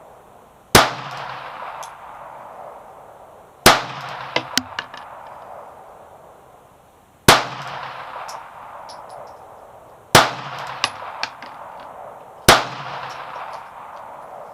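Kel-Tec P-32 .32 ACP pocket pistol fired five times at a slow, deliberate pace, the shots about three seconds apart. Each shot is a sharp crack with a short echo trailing off, and a few light clicks follow some of the shots.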